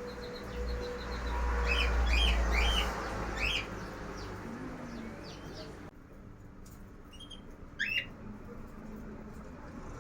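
Small birds chirping: a quick run of faint high chirps, then several louder rising calls two to three seconds in and one more loud call near the end. A low rumble sits beneath the first few seconds.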